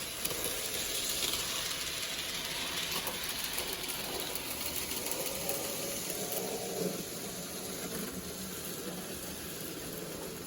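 Model train running on the layout's track: a steady mechanical hiss and rattle of its small electric motor and wheels.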